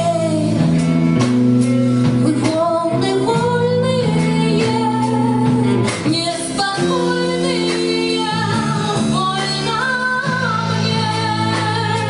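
Live band performance: a woman singing lead over guitar and a steady beat.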